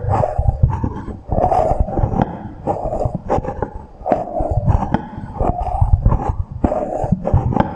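Close-miked ASMR handling sounds with an added echo effect: an irregular run of clicks and taps, each followed by a smeared low rumble.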